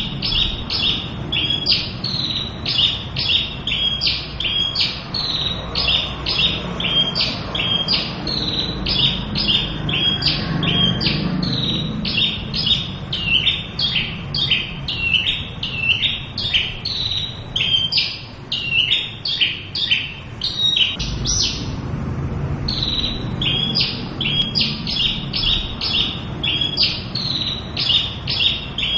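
Javan bushlark (Australasian bush lark) singing a fast, unbroken string of sharp, high notes, about three or four a second, with a brief pause about three-quarters of the way through. The song is full of varied phrases (full isian), and a low steady rumble runs underneath it.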